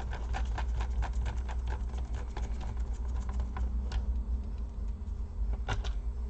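Rapid run of small, sharp clicks and taps, about four or five a second, thinning out after about four seconds, with a louder double click near the end, over a steady low hum.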